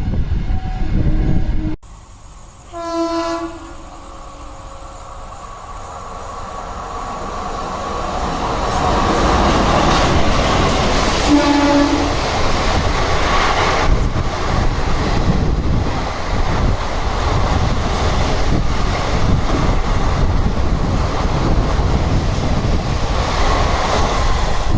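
The end of one express train's pass cuts off abruptly. Then a locomotive horn sounds on an approaching train, the train's noise grows steadily louder, the horn sounds again briefly, and the express passes at high speed with a sustained rumble and wheel clatter.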